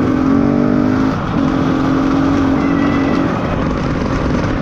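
Trail motorcycle engine running as the ride sets off, holding a steady note that dips briefly about a second in and shifts slightly near the end.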